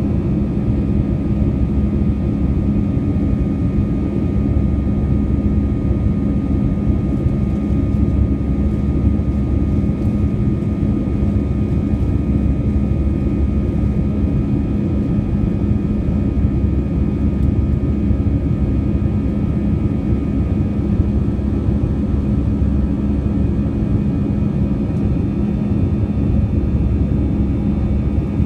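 Jet airliner engines running at steady power: a heavy, unchanging low rumble with several steady whining tones over it.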